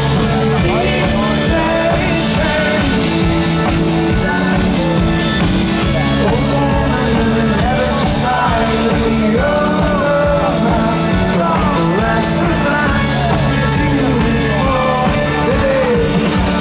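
Loud rock music with singing and a steady, regular drum beat.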